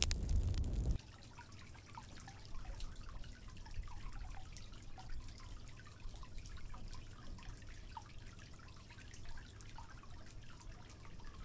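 Spring water trickling and dripping softly, with many small scattered drop sounds. About a second in, a louder low rumbling noise cuts off suddenly.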